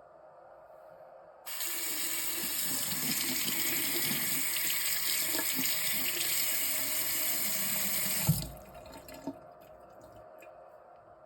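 Water tap turned on, running steadily into a sink for about seven seconds, then shut off with a thump. A faint click follows.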